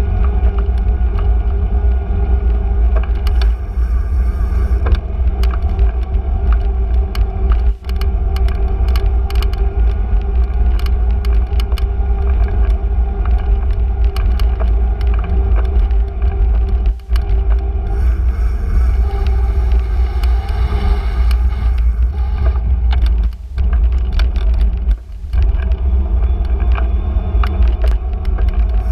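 Sound of riding a bicycle: a steady heavy rumble of wind and road noise on the microphone, with scattered clicks and rattles and a few brief dips.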